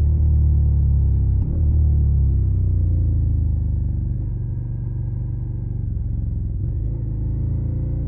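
Suzuki SV650's V-twin engine through a Yoshimura Alpha carbon exhaust, running under throttle with a short break in the sound about one and a half seconds in. It then eases off, falling in pitch and quieter from about four seconds in.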